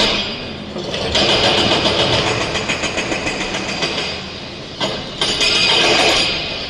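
Heavy diesel machinery running loudly, with sudden dips in level around a second in and again near five seconds.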